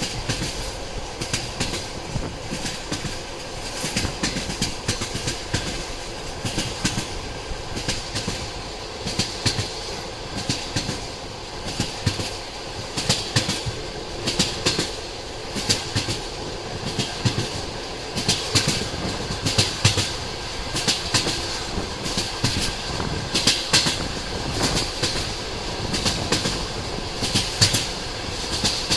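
Train running along the track, its wheels clattering over the rail joints in repeated clusters of clicks over a steady rumble.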